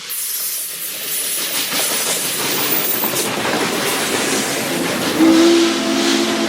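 Norfolk & Western 611, a Class J 4-8-4 steam locomotive, passing with a steady rush of steam and rolling noise. About five seconds in, its steam whistle starts to blow a steady chord.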